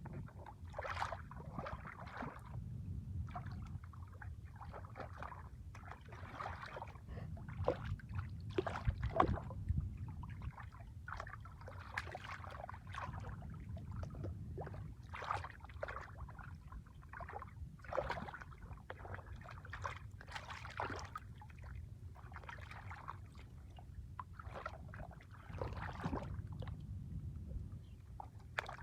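Irregular splashing and sloshing of water, one splash every second or so over a low rumble.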